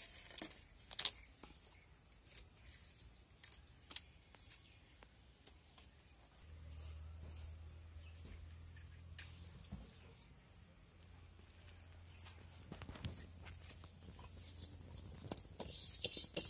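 A bird calling outdoors, a short high falling chirp repeated about every two seconds, over scattered light knocks and clicks of firewood sticks being laid in a brick wood stove. A low steady hum sits under the middle part.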